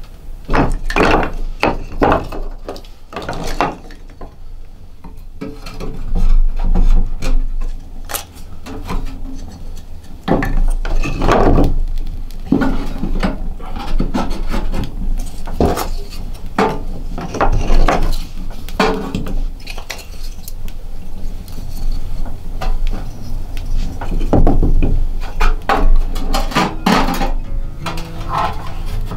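Irregular knocks and clatter of hard objects being handled, some sounding like wood and some like dishes or metal, over a steady low rumble.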